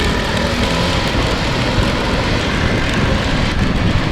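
Small motor scooter running under way, its engine note mixed into heavy wind rush on the microphone.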